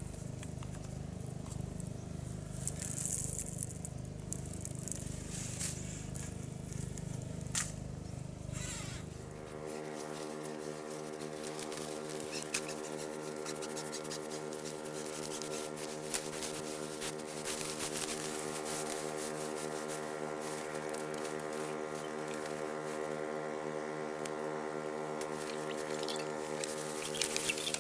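Engine-driven water pump running steadily as it draws the water out of a pit. About ten seconds in its tone changes abruptly from a low throbbing drone to a steadier, higher hum, with faint ticking and crackling over it.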